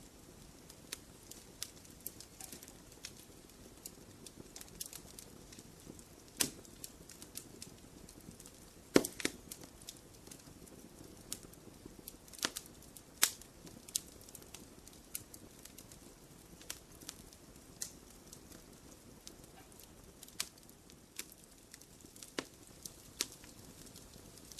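Wood fire crackling in a fireplace: irregular sharp pops and snaps over a soft, steady low rush, with a few louder pops, the loudest about nine seconds in.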